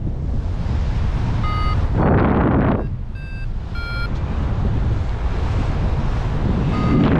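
Wind buffeting the microphone in flight, gusting louder about two seconds in and again near the end. A paragliding variometer gives a few short beeps at differing pitches in the first half, the tone it sounds when the glider is climbing in lift.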